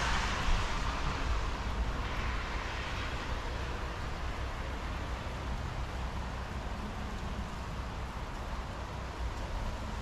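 Steady hiss and low rumble of a thunderstorm, with wind on the microphone. A louder wash of noise at the start eases off over the first two seconds.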